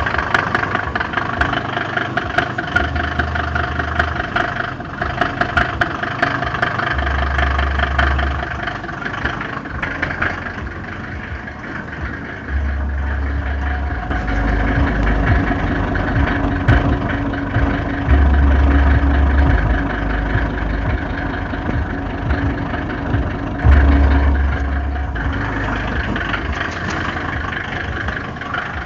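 Mercedes-Benz OM605 five-cylinder diesel engine idling steadily with a knocking noise, the fault it is being recorded for.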